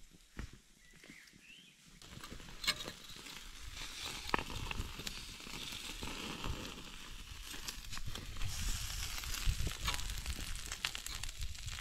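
Food sizzling and crackling as it cooks, with scattered sharp pops; the sizzle grows louder about two seconds in.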